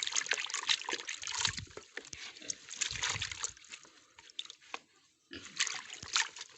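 Water running and splattering as freshly picked madre de agua leaves are rinsed under it. It dies down about four seconds in and starts again about a second later.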